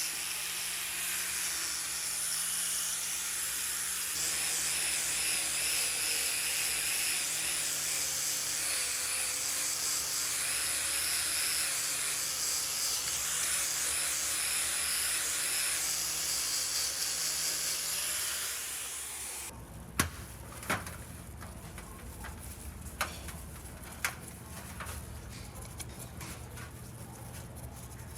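A machine running with a steady hiss and a low hum, stopping suddenly about 19 seconds in, followed by a few sharp knocks.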